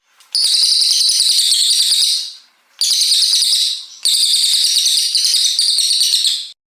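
A brown cililin songbird singing long, rapid, high-pitched trills in three bursts: about two seconds, then about one, then about two and a half, separated by brief pauses.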